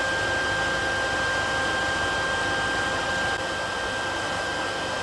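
A steady whirring drone, like a small motor running, with a constant high whine above it.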